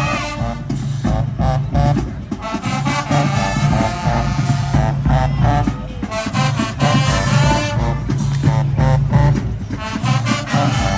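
Marching band playing: brass melody over a driving drum beat, with a heavy low brass bass line.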